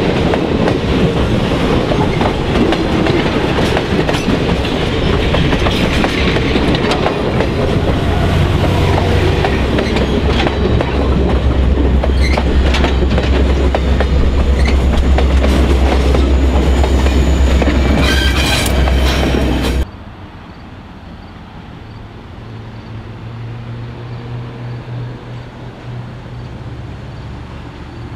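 Passenger coaches rolling close past, steel wheels clicking over rail joints under a steady rumble that turns heavier and deeper in the middle, with a cluster of sharp clicks just before it cuts off suddenly. Then, much quieter, a low steady hum as a small 0-4-0 tank steam locomotive approaches slowly.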